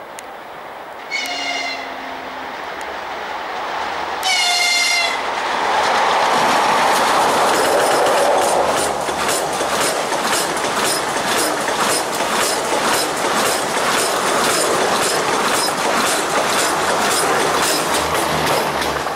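Horn of an EP20 electric locomotive sounding two short blasts as a greeting, about a second in and again about four seconds in. The locomotive and its Strizh high-speed train then pass at speed: a loud rush, with a fast, even clicking of wheels over rail joints from about nine seconds in.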